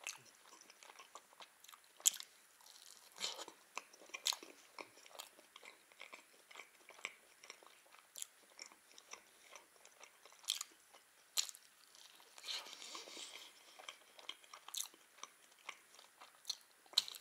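A person chewing a soft baked egg, cheese and sour-cream casserole close to the microphone: irregular wet mouth clicks and smacks, with a few sharper clicks now and then.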